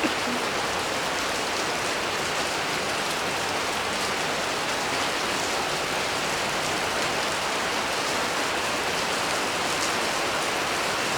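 Steady heavy rain falling and splashing on the ground and hard surfaces, an even hiss with a few faint drip ticks, picked up by a phone's microphone.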